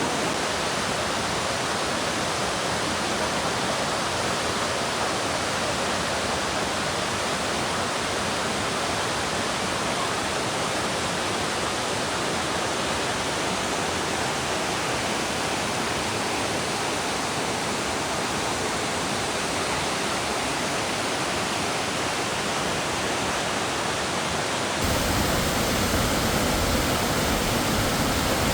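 Waterfall pouring, a steady rush of water. About 25 seconds in it cuts abruptly to a louder, deeper rush.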